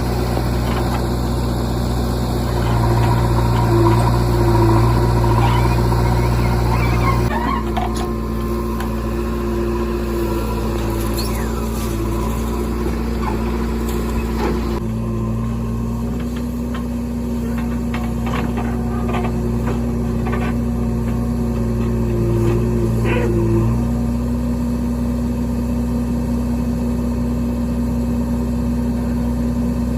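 JCB 3DX backhoe loader's diesel engine running steadily, its note shifting a few times as the load changes, with scattered short clicks and knocks from the machine at work.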